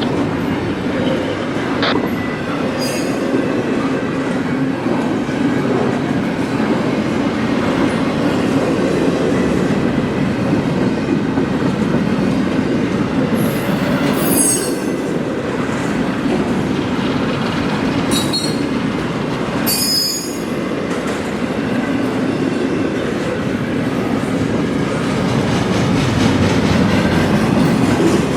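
Freight train cars rolling past, a steady rumble of wheels on rail with brief high-pitched wheel squeals several times, most clearly about 14 and 20 seconds in.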